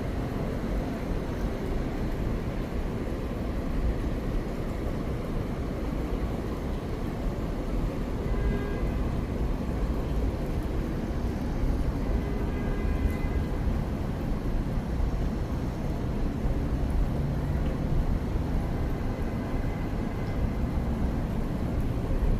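Steady low rumble of outdoor background noise, with faint short higher tones about 8 and 13 seconds in.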